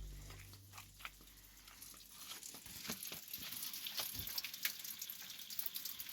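Faint, irregular crackling and clicking, after the tail of the music dies away at the start.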